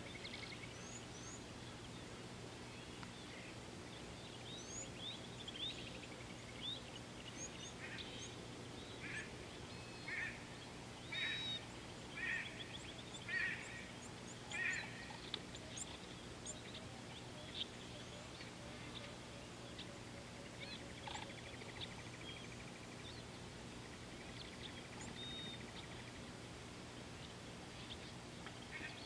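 Wild birds calling: a run of about six loud, harsh calls roughly a second apart in the middle, over scattered faint high chirps and a steady low hum.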